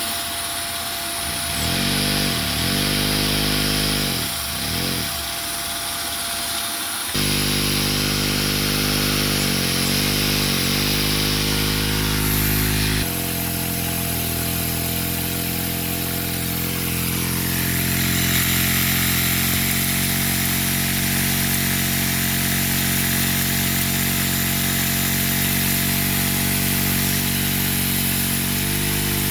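LEGO vacuum engine running and being revved: a steady motor drone over a hissing rush of air. Its pitch dips and recovers several times in the first ten seconds, and the sound shifts abruptly twice before settling into a steady run.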